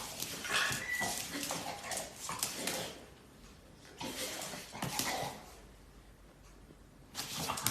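A dog whimpering and giving short yips in uneven bursts, with a couple of quieter pauses; it is excited at being given a treat.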